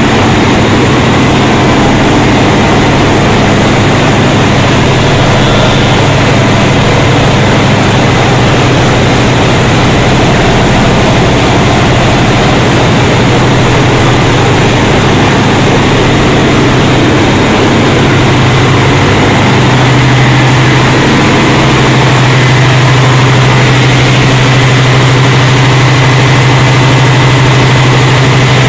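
Loud, steady drone of diesel machinery running in a ship's engine room, dominated by a deep hum that grows stronger about twenty seconds in.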